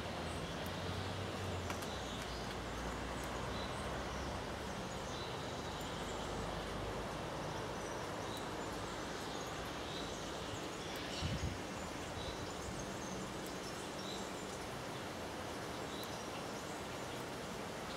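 Steady outdoor background hiss with a bird giving short, high chirps every second or two. A single low thump comes about eleven seconds in.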